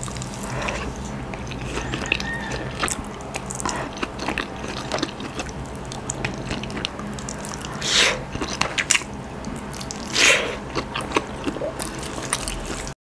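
Close-miked eating sounds: wet chewing and lip smacks as mouthfuls of rice and shredded chicken are eaten by hand, with a quick run of small mouth clicks and two louder mouth noises about eight and ten seconds in. A low steady hum lies underneath.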